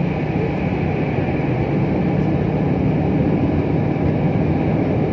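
Airliner cabin noise: a steady engine drone with a low hum and airflow hiss, heard from inside the passenger cabin.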